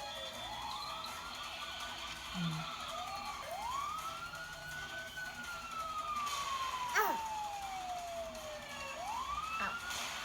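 Toy police car's electronic siren wailing: a tone that rises quickly, holds, then falls slowly, repeating about every four seconds.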